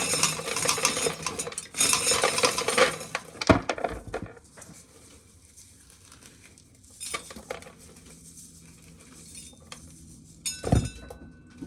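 Dried corn kernels being shelled off the cob by hand and clattering into a pail: a dense rattle of small clicks for the first four seconds or so, then thinning to scattered clicks.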